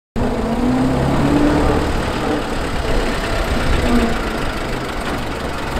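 Engine of a vintage Dodge open tourer running as the car drives slowly along. The sound cuts in abruptly just after the start.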